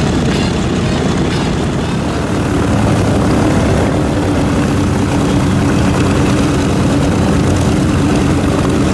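Radial engines of a formation of SNJ propeller trainers droning overhead. A steady engine hum comes up a little more strongly a couple of seconds in.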